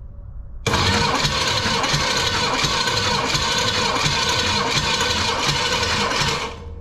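Big-block Chevy V8 cranking on its starter with all spark plugs out for a compression test. The starter runs steadily with an even pulsing rhythm, kicking in about a second in and stopping just before the end. The gauged cylinder comes up to about 130 psi, matching the others: healthy, even compression.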